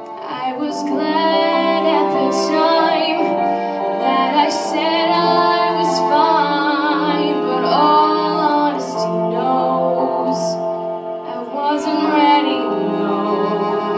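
A female vocalist singing a slow song with vibrato over sustained instrumental accompaniment.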